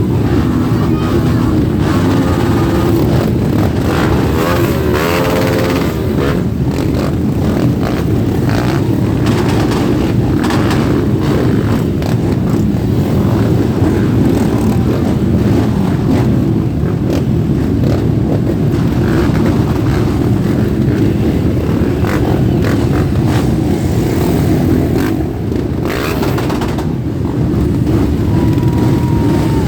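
A group of motorcycles setting off and riding past, a dense mix of engines running with a few riders revving, the pitch rising and falling about four to six seconds in.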